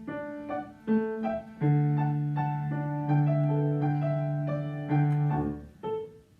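Piano playing a song's introduction: a run of struck notes over a held bass, stopping shortly before the end.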